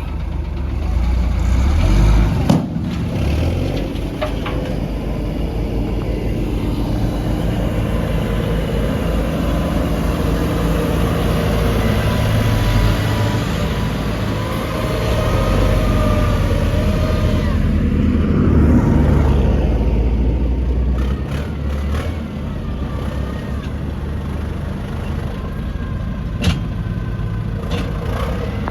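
Heavy diesel earthmoving machinery running under load, the engine note rising and falling as it revs. There is a sharp knock about two and a half seconds in and another near the end.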